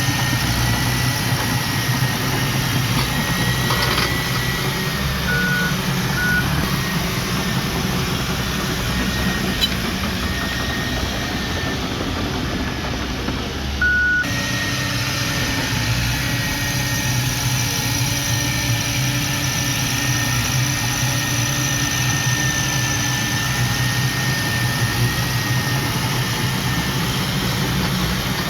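Engine of heavy earthmoving machinery running steadily, with a thin high whine wavering in pitch and a few short beeps.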